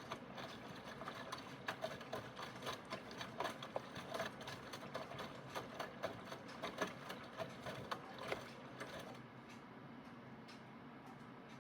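Aidoo 1 kg mini washing machine's direct-drive motor running through its wash, with a steady hum and a rapid, irregular clatter of clicks and knocks that stops about nine seconds in, leaving a quieter hum.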